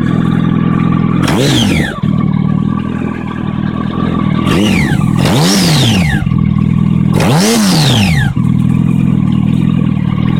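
A 2008 Yamaha R1's inline-four engine, warmed up, idling steadily with three quick throttle blips, the revs rising and falling back each time. Between the blips the idle holds even without hunting, the sign that it has come up to operating temperature.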